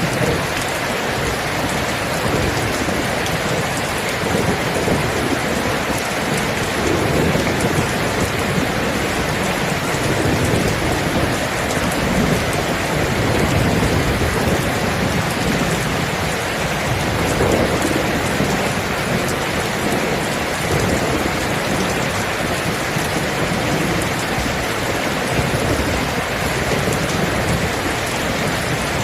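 Steady rain falling, with low rolling rumbles of thunder swelling and fading underneath.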